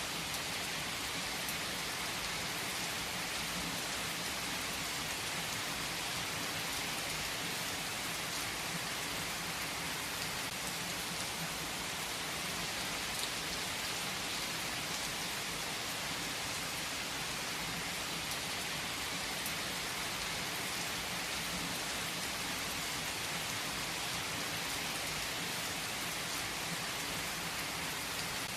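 Steady rain falling: an even, unbroken hiss with faint scattered drop ticks and no distinct thunderclap.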